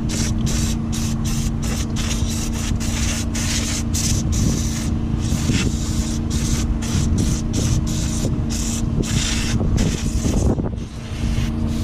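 Aerosol can of brake cleaner spraying in quick sputtering bursts, several a second: the can is nearly empty and low on pressure. A steady low hum runs underneath.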